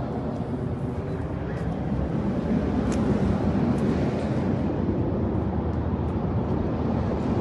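Semi-truck engine running, a steady rumble that gets a little louder about two seconds in.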